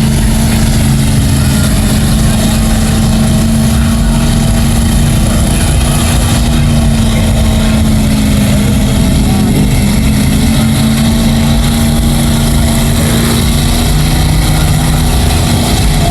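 Mega truck engine running loud and steady at a held pitch, with a brief waver in pitch about ten seconds in.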